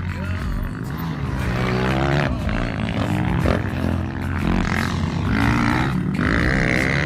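Two-stroke motocross bike engines revving on the track, their pitch rising and falling several times as the riders open and close the throttle.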